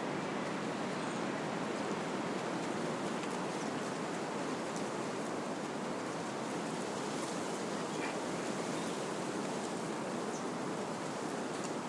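Wind blowing steadily through trees, a continuous rushing rustle of leaves and branches, with a few faint high chirps here and there.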